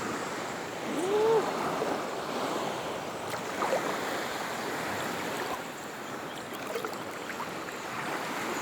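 Small waves washing steadily in shallow sea water at low tide. About a second in, a short call rises and falls in pitch over the wash.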